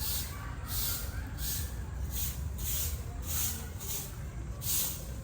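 Footsteps crunching on a path at a steady walking pace, about one and a half steps a second, over a low steady rumble.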